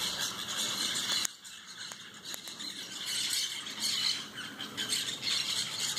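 A flock of parrots squawking loudly, many harsh calls overlapping without a break.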